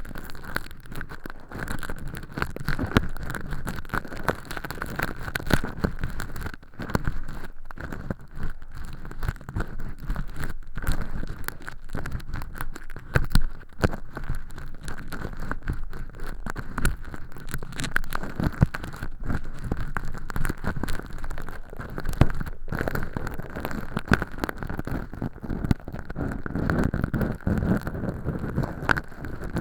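An earpick scraping and crackling inside a silicone ear model, peeling thin-film fake earwax from the canal walls. It is a dense, continuous crackle with frequent sharp clicks.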